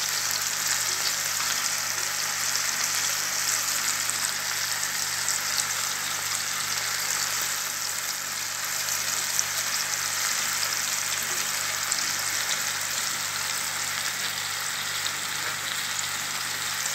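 Small pieces of cod and chopped onion frying in a pan: a steady sizzling hiss with fine crackles.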